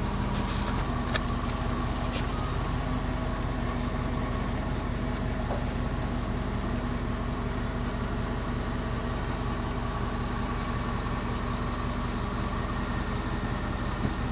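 Steady low engine hum, like an idling vehicle, with a few faint clicks in the first second or two.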